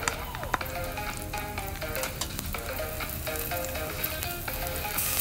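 Diced carrots and chopped garlic sizzling steadily in sunflower oil in a pot, with a few small ticks and crackles.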